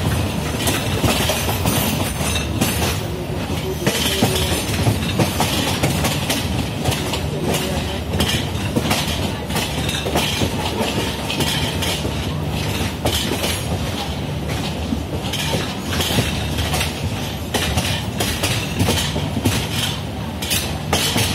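Passenger train coach running on the track: a steady rumble of wheels on rail, with repeated clicks and clacks as the wheels cross rail joints and points. Heard from the coach's open doorway.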